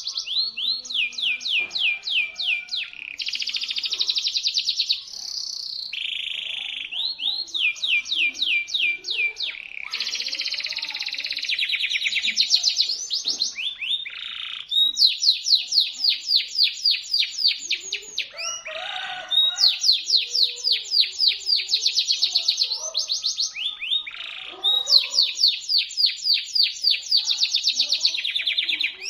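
Domestic canary singing a shrill, sharp song: a string of fast trills, each a rapid run of repeated notes lasting a second or two, following one another without a break.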